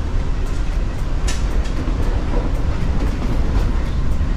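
Amtrak Acela train moving, heard inside a passenger car: a steady low rush of wheel and car-body noise with scattered faint clicks and one sharper click about a second in.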